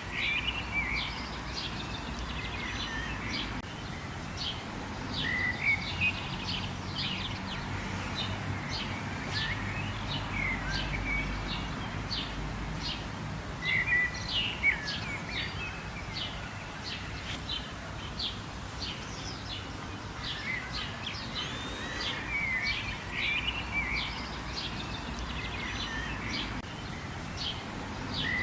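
Birds chirping and calling, many quick short notes and little warbles one after another, over a steady background hiss.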